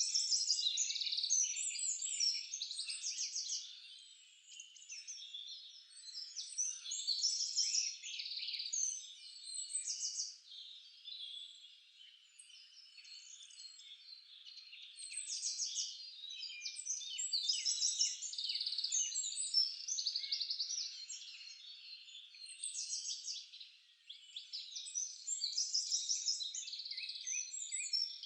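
Songbirds singing in a chorus: rapid chirps and trills in overlapping phrases a few seconds long, with short lulls between them.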